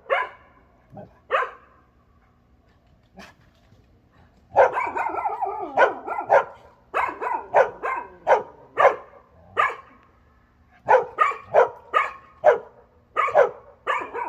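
A dog barking repeatedly in short, quick runs, with a longer wavering whine about five seconds in.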